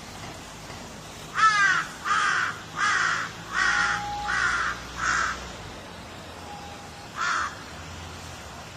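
Crow cawing: six harsh caws in quick succession starting about a second and a half in, then one more caw near the end, over a steady hiss.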